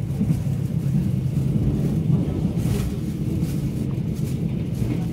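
Korail Mugunghwa-ho passenger train running on the rails, heard from inside the carriage: a steady low rumble of wheels and track. A brief rushing swell comes a little past halfway as the train passes a station platform.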